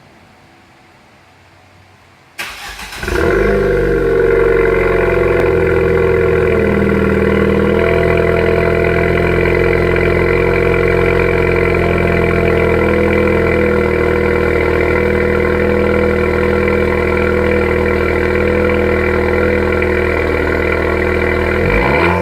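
Ford Fiesta ST's turbocharged engine breathing through an aftermarket Flowmaster exhaust: it cranks and fires about two seconds in with a brief flare, then settles into a steady idle, starting to rev right at the end.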